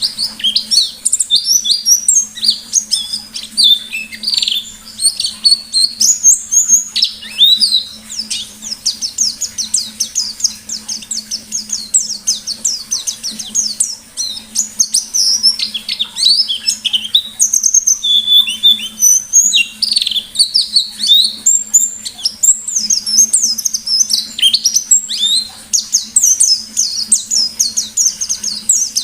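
White-eye (pleci) singing without a break in the 'ngalas' style: a fast, high-pitched stream of chirps and rapid trills ('nembak'), with a faint steady low hum beneath.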